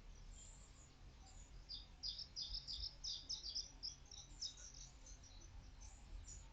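A small bird chirping in quick runs of short, high notes, busiest through the middle; faint.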